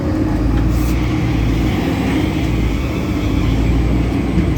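Solaris Urbino 18 articulated bus's DAF Paccar PR265 diesel engine running steadily, heard from on board, with a higher whine over the low rumble from about a second in. The title calls this loud belt noise from the DAF engine.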